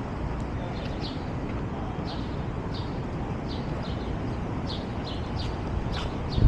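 A small bird chirping over and over in short high notes, over a steady low rumble of city background noise.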